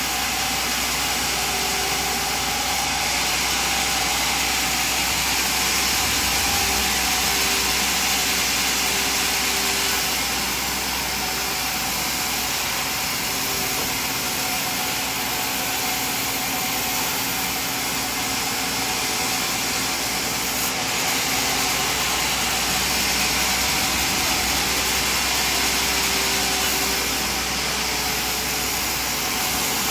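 Sawmill machinery running steadily: a loud, even mechanical noise with a steady tone above it, and short tones that come and go.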